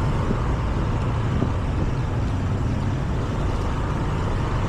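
Scooter running steadily under way, its low engine hum mixed with a steady rush of road and wind noise.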